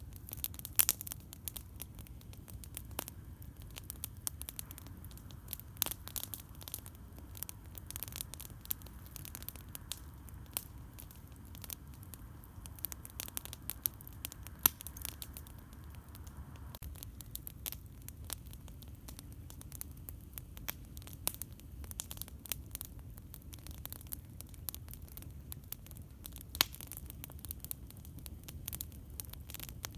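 Wood campfire crackling: irregular sharp pops and snaps, a few much louder than the rest, over a steady low rumble.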